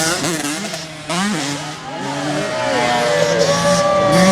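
Motocross bike engines running and revving, with one engine's pitch falling slowly through the second half.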